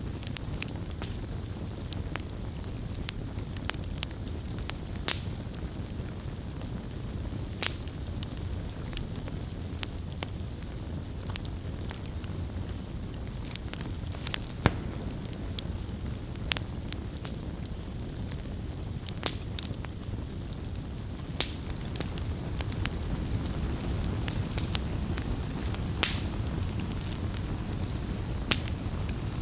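Wood campfire burning: a steady low rumble of flame with irregular sharp crackles and pops, a few of them louder snaps.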